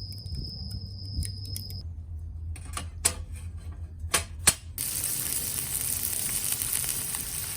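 A steady high insect trill for the first couple of seconds, then about six sharp clicks, then a steady hiss that starts suddenly about five seconds in and cuts off abruptly near the end.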